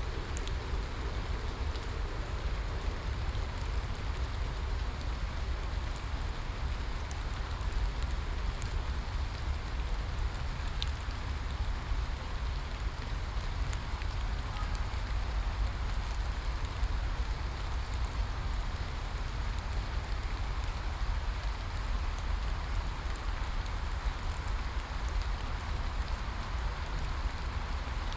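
Steady rainfall, an even hiss with a deep low rumble beneath and scattered faint drop ticks.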